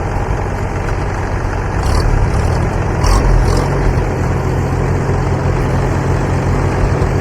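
Antique Farmall tractor engine idling steadily at low speed, a little louder from about two seconds in.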